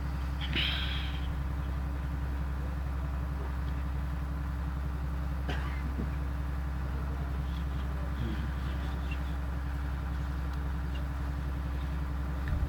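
Steady low electrical hum with faint hiss from an old recording, in a pause in Quran recitation. A faint click comes about five and a half seconds in.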